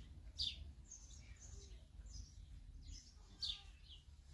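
Birds chirping faintly in short, scattered high-pitched calls, two of them louder than the rest.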